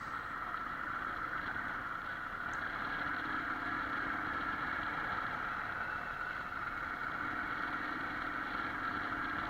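Motorcycle engine running steadily while riding at an even pace, with a steady rush of wind and road noise.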